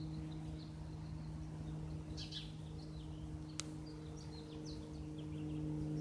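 Distant single-engine Cessna light aircraft droning steadily, its level rising slightly near the end, with birds chirping now and then and one sharp click in the middle.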